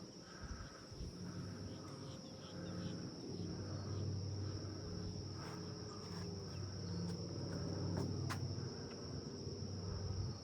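Insects, crickets by their sound, trilling in a steady high continuous tone over a low steady rumble, with a few sharp clicks.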